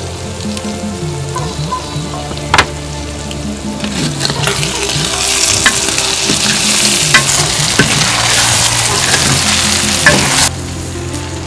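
Chopped tomatoes and chillies with spices frying and sizzling in a pot as a spoon stirs them, with a few sharp knocks of the spoon against the pot. The sizzle grows louder from about four seconds in and cuts off suddenly near the end.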